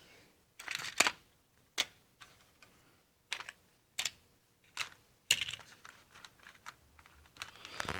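A series of sharp, irregularly spaced clicks, about six over several seconds, with brief rustling around a second in and again near the end.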